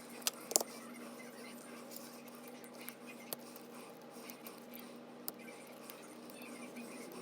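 Small sharp clicks and taps of metal tools and small parts being handled during an iPhone 7 charging-port repair, two close together near the start and a few scattered after, over a steady faint hum.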